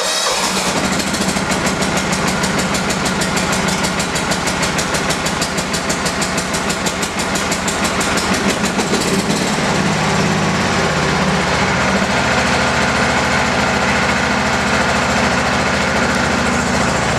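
1986 John Deere 165 hydrostatic lawn tractor's engine idling just after a cold start, having sat unused for about two weeks. It runs with a rapid, even pulsing for the first nine seconds or so, then settles into a steadier idle while it warms up.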